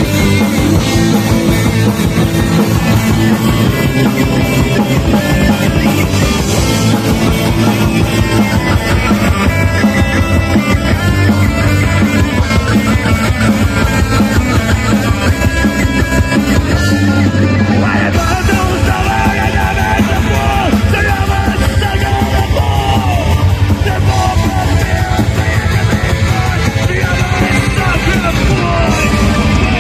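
Live metal band playing loud with distorted guitars and drums, with shouted vocals over parts of it.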